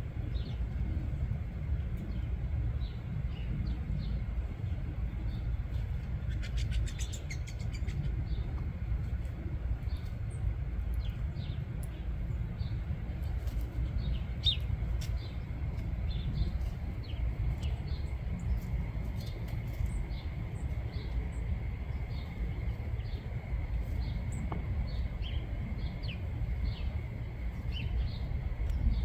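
Small birds chirping, with many short high calls scattered throughout over a steady low rumble. About seven seconds in comes a rapid, buzzy rattling call.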